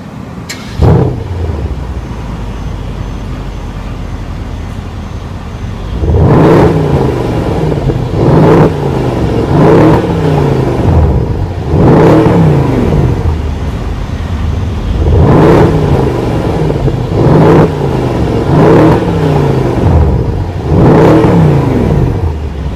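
Mercedes-Benz CLS63 AMG S-Model's twin-turbo V8 starting with a short flare about a second in, settling to idle, then free-revved about eight times in quick blips, each rising and falling in pitch.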